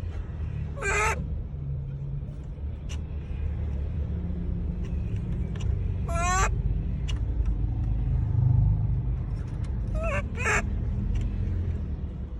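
A monkey giving short high-pitched calls: one about a second in, one around six seconds in, and two close together near the end, over a steady low rumble.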